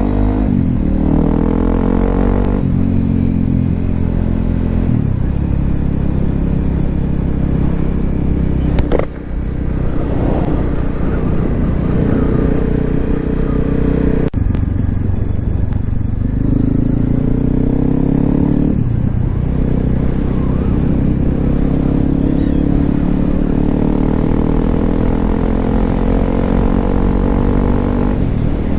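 Honda CRF250L's single-cylinder four-stroke engine running through an FMF Q4 exhaust with a Mega Bomb header while riding, its revs rising and dropping several times. A sharp knock comes about nine seconds in and another about fourteen seconds in.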